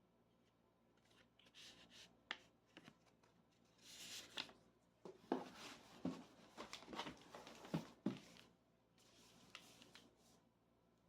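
Hands quietly handling packaging and small objects: soft rustles and scrapes, with a cluster of light taps and clicks in the middle.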